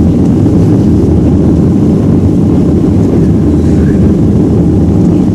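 Steady, loud, low roar of a jet airliner heard from inside the passenger cabin.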